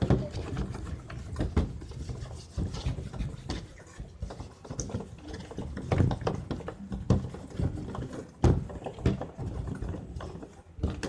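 Irregular soft thumps and taps of hands rolling and pressing Play-Doh modelling clay on a tabletop, with a few sharper knocks.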